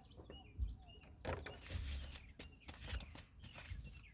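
Faint bird chirps in the first second, with a few soft clicks and rustles.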